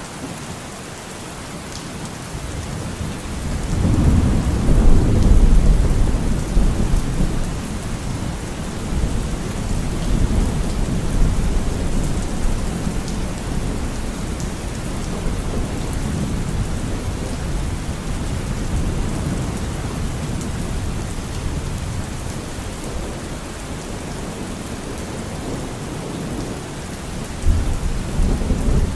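Steady rain falling with a low rolling rumble of thunder that swells a few seconds in and lingers, and another rumble near the end.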